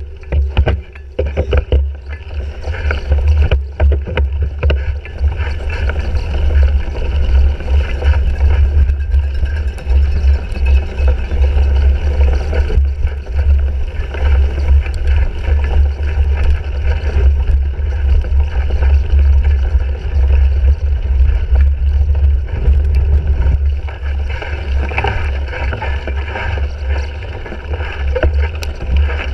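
Riding noise picked up by a handlebar-mounted action camera on a cyclocross bike racing over rough ground: a heavy, steady low rumble of wind and vibration, with a run of rattling knocks in the first few seconds.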